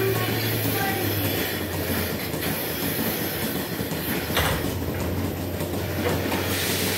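Milking shed machinery running steadily with a low, even hum and a rolling rumble, with one sharp clank about four and a half seconds in.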